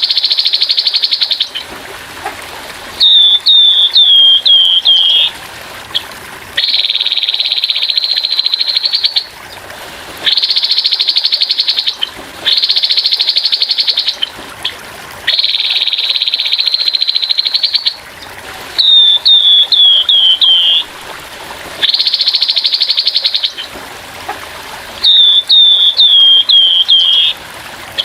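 Grey-headed babbler giving its harsh rapid-fire call: buzzy rattles of about two to three seconds, alternating with short runs of five or six falling notes, repeated over and over. Under it runs a steady trickle of water.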